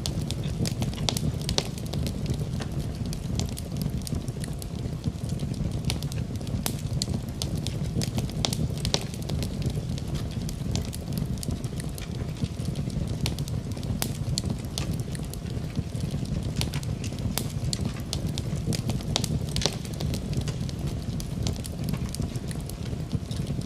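Wood fire burning in a fireplace: a steady low rumble of flames with frequent, irregular crackles and sharp pops.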